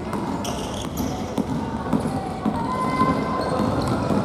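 Futsal ball kicked and bouncing on a gym floor, several sharp thuds, with players' voices calling out across the sports hall.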